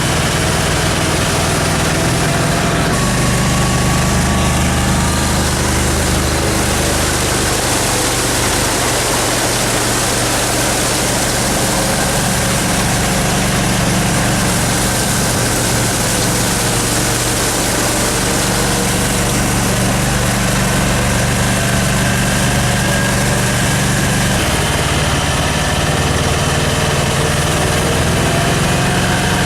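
The engine of a slow-moving vehicle running steadily through mud and water, with a constant rushing noise over it. The engine note shifts slightly twice.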